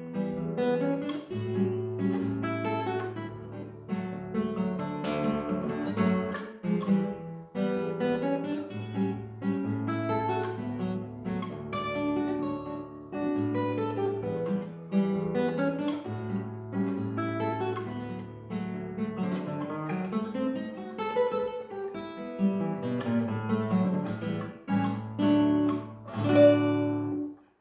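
Acoustic guitar playing a waltz: a plucked melody over bass notes, closing on a louder final chord near the end.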